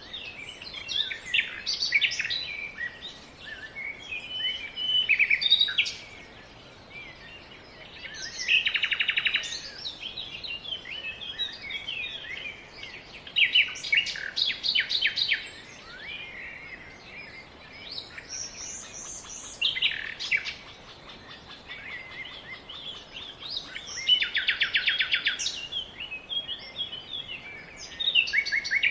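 Songbirds singing: short phrases of chirps, with a fast trill every five seconds or so.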